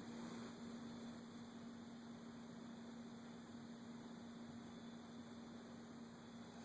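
Faint steady electrical hum, one low unchanging tone, over a light hiss.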